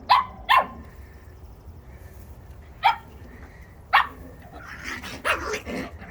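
Coton de Tulear puppy barking in short, high yaps: two quick barks at the start, single barks about three and four seconds in, then a faster run of yapping near the end.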